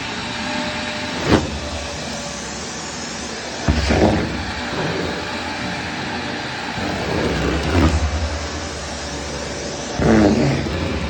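Vacuum cleaner motor running steadily with a constant whooshing hum, broken by a sharp click about a second in and heavier bumps near 4 s and again near the end as the cleaner is moved about.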